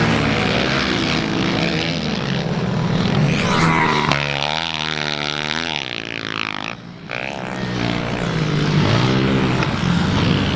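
Pit bike engines revving hard, changing pitch as they go up and down through the gears. About halfway through, one engine climbs in pitch and then drops away, with a short dip in the sound just after.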